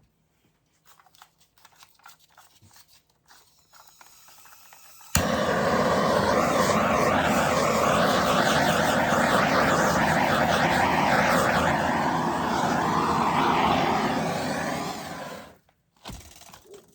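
Handheld torch running over wet acrylic pour paint, a stage used to bring cells up through the paint: a loud steady hiss that starts abruptly about five seconds in and dies away about ten seconds later, with faint handling sounds before it.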